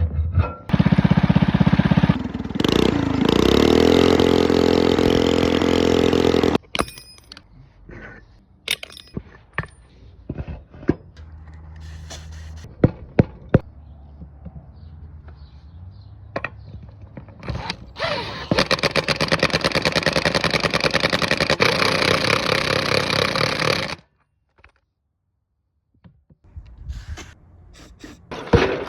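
A power tool runs in two long bursts during tire and wheel work on a go-kart. In the first burst its motor whines up to speed and holds. The second burst has a fast, even rattle. Between the bursts come scattered knocks and clanks of metal parts.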